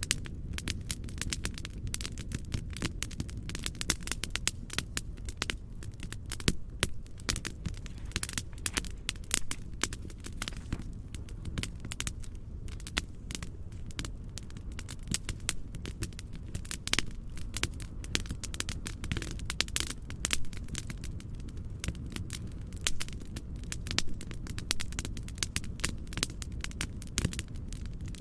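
Fireplace fire crackling: frequent irregular pops and snaps over a steady, low-pitched noise bed.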